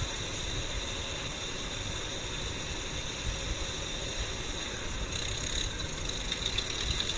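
Tractor engines running steadily, mixed with a steady hiss.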